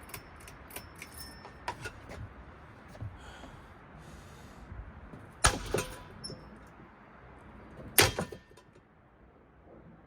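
Ceiling fan being wrecked: light clicks and rattles, then two loud bangs about two and a half seconds apart, each leaving a brief ringing tone. The steady background noise drops away just after the second bang.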